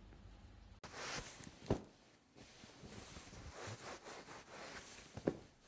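Handling noises: rustling with two sharp clicks or knocks, one about two seconds in and a louder one near the end.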